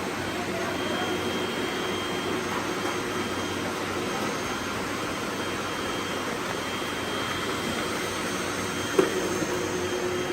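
Robot vacuum running steadily, a constant whirring hum. A short knock sounds about nine seconds in.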